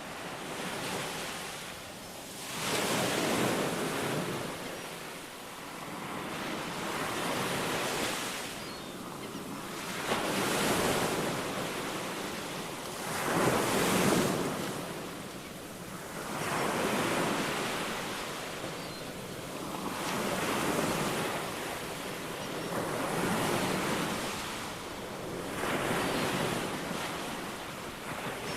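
Ocean surf: waves breaking and washing in one after another, the rush swelling and falling back about every three seconds.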